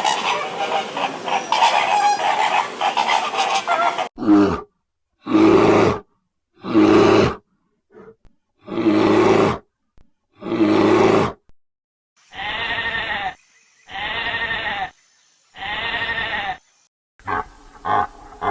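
A string of different animal calls, edited one after another. First comes about four seconds of dense continuous calling. Then five loud separate calls of about a second each, three calls that rise and fall in pitch, and quick short grunts starting near the end.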